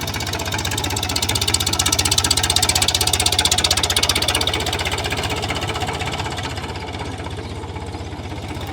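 Tractor's diesel engine running hard with a fast, even firing beat, getting louder about a second and a half in, then easing off after about four and a half seconds.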